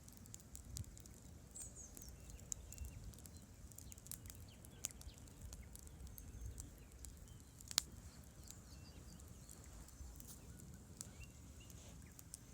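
Wood campfire crackling faintly, with irregular sharp pops and snaps, the loudest about two-thirds of the way in, over a low steady rumble of the river. A few faint high chirps early on.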